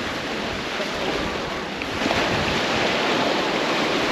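Ocean surf rushing onto a beach, with wind buffeting the microphone; the surf swells louder about halfway through.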